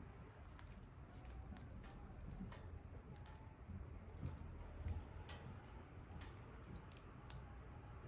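Bonfire crackling faintly: irregular small pops and ticks over a low steady rumble, with a couple of louder pops a little past halfway.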